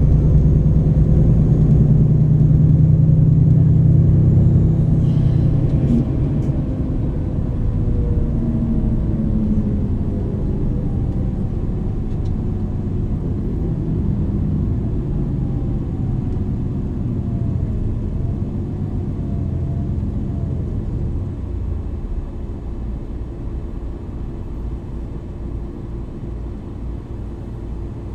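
MAN NL 323 city bus's diesel engine running through its ZF EcoLife automatic gearbox. It works hard and loud for the first five seconds or so, then eases off, its pitch rising and falling through gear changes, and it slowly quietens near the end.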